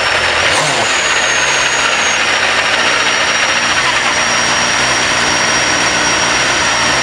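Mercedes-Benz CLK LM's V8 engine idling loudly and steadily just after start-up, with a thin steady high whine over it.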